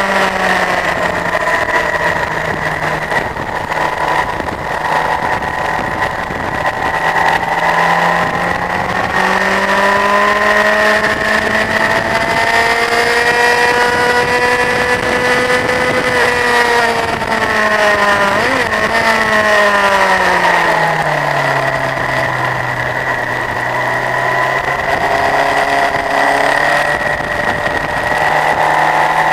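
Honda CBF1000's inline-four engine running hard on track: the revs climb slowly for several seconds, drop away about two-thirds of the way through, hold low, then climb again near the end.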